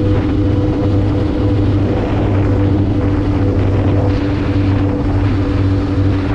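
Kawasaki H2's supercharged inline-four engine running at a steady speed while riding, with wind rushing past the microphone.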